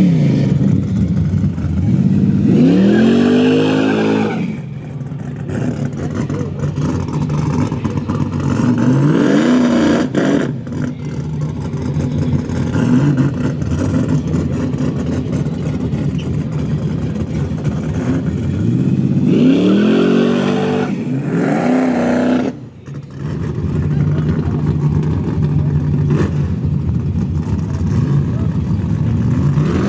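Drag race car engines running loudly, revving up in rising and falling sweeps of pitch several times over a steady engine drone.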